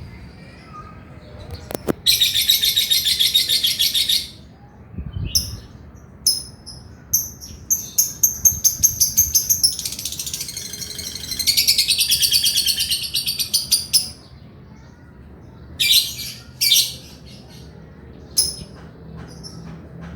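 Male lovebird in full song: rapid, high chattering trills, one about two seconds long and a longer one of about four seconds in the middle, between bursts of short sharp chirps.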